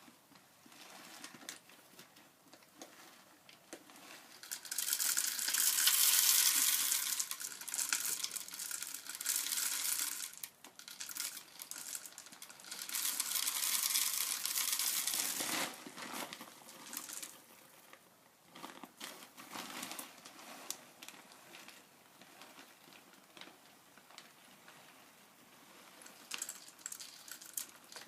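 Bird seed being poured into a plastic bottle feeder: two long stretches of rustling, one about five seconds in and one about twelve seconds in, with smaller crinkles and rattles between.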